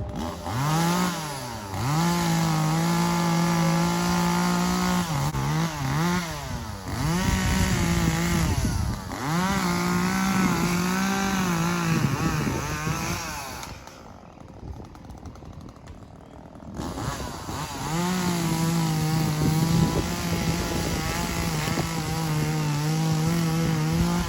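Gas chainsaw running at high revs, revving up and down several times and sagging in pitch now and then, as when cutting into a tree. It drops to a low idle for about three seconds in the middle, then runs at full throttle again.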